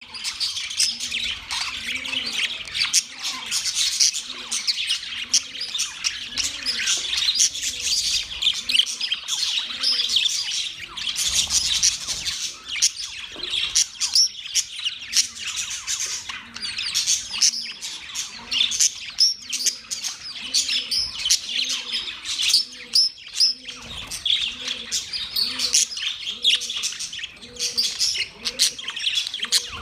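Several young budgerigars chirping and squawking continuously in a dense, busy chatter.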